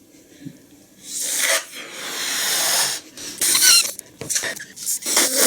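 Air rushing into a rubber novelty balloon as it is inflated, growing louder over about two seconds, followed by the stretched rubber squeaking and rubbing.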